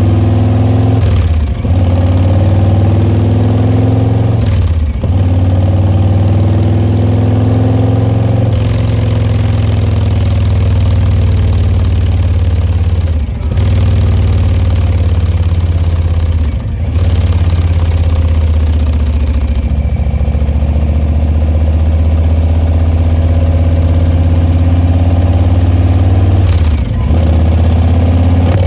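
A 2021 Harley-Davidson Fat Boy's Milwaukee-Eight 114 V-twin idles with a deep, steady exhaust note through a Bassani Pro Street turnout muffler. It is broken about five times by short throttle blips that rise and fall back to idle.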